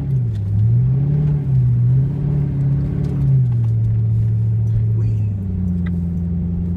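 Car engine heard from inside the cabin, revving up and down several times in the first few seconds as the driver tries to drift on an icy, snowy road, then running steadily, with a shift in pitch about five seconds in.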